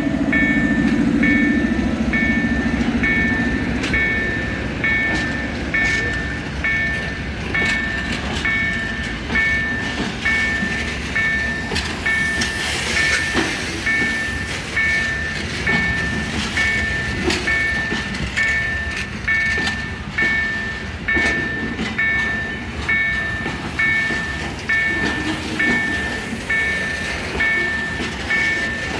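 Freight train wagons rolling past, wheels clacking over the rail joints at an even beat. A high, steady beeping warning tone repeats about twice a second over it, and a low held tone fades out in the first few seconds.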